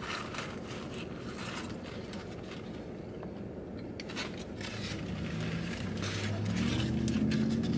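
A person chewing a crispy fried chicken sandwich, with scattered small crunches and mouth clicks. A vehicle's low hum grows louder over the last few seconds.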